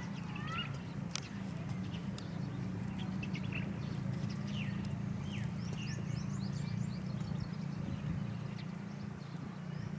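Small birds chirping in short, quick high notes, with a rapid trill about six to seven seconds in, over a steady low rumble.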